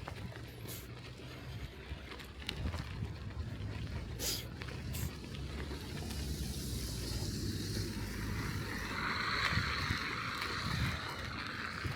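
Bicycle ridden over a snowy street: a steady low rumble of wind on the microphone and tyre noise, with a hiss that builds over the second half.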